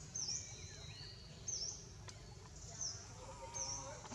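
A bird repeats a short, high, dipping chirp four times, about once a second, over a steady low background noise. Fainter, lower calls come in near the end.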